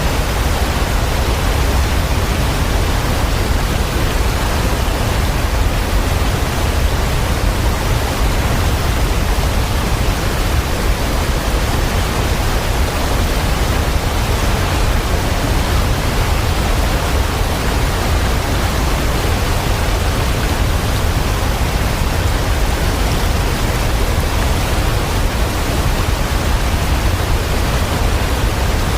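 Steady, unchanging rushing of water, heavy rain or falling water, a dense even hiss with a deep low rumble under it.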